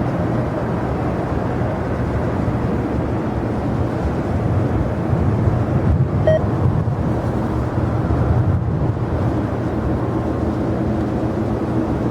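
Jet airliner engines running: a steady rumble with a low hum, swelling slightly in the middle.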